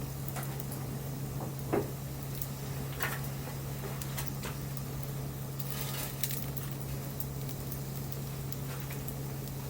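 Wood burning in an open campfire, crackling with scattered small pops, a louder pop about two seconds in and a quick cluster of crackles around the six-second mark, over a steady low hum.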